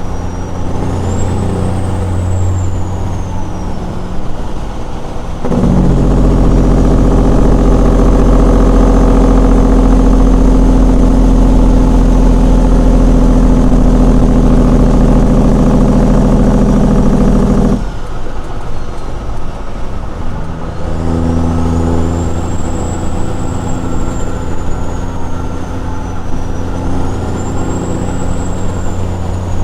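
Straight-piped Caterpillar 6NZ inline-six diesel in a Peterbilt 379 running. About five seconds in, it jumps to a much louder, deep, steady engine-brake bark at near-constant pitch, held for about twelve seconds. That cuts off abruptly, then the engine goes back to running at a moderate level.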